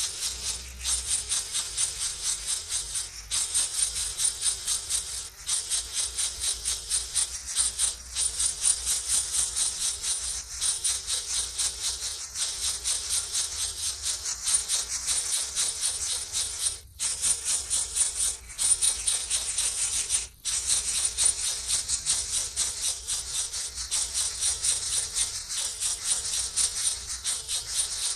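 Nestlings begging in the nest: a rapid, raspy, hissing chatter that pulses several times a second without letting up, broken only briefly twice.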